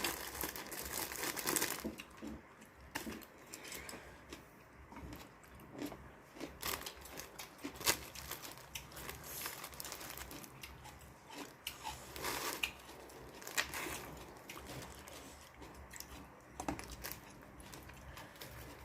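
Faint eating sounds: crunching and chewing, mixed with the crinkle of plastic packaging, in short scattered crackles and clicks.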